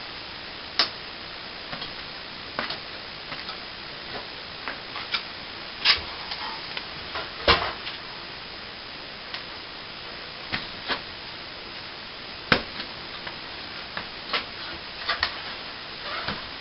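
Irregular sharp clicks and knocks of hand tools being handled during plastering work, over a steady hiss.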